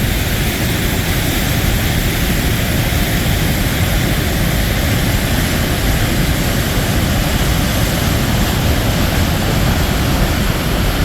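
Waterfall's water rushing in a steady, loud roar without a break.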